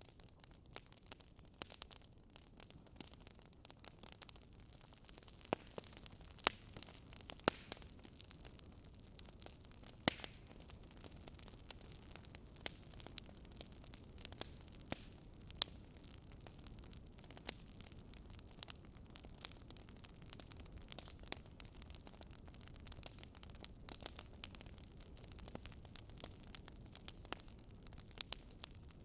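Wood fire crackling: frequent sharp pops and snaps over a low, steady rumble.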